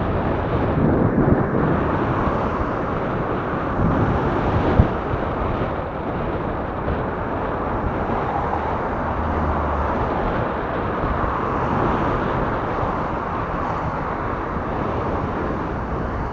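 Steady wind rushing over the microphone of a camera riding on a moving recumbent bicycle.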